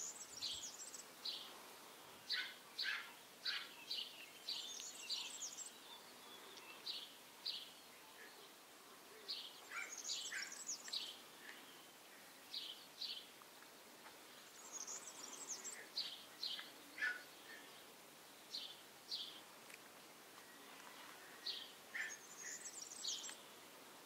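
Small birds chirping: short high chirps, often in pairs, repeating every second or so, with a few brief higher trills now and then.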